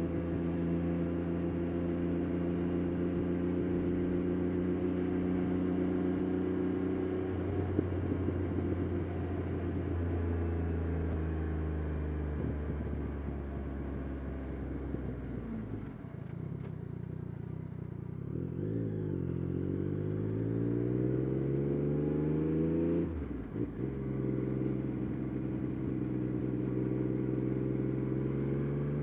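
Yamaha Tracer 9 GT+'s CP3 three-cylinder engine through a Roadsitalia titanium exhaust, under way: it holds steady revs, the revs fall away about halfway through, then climb in a rising pull. After a short break for a gear change it settles again and begins to rise near the end.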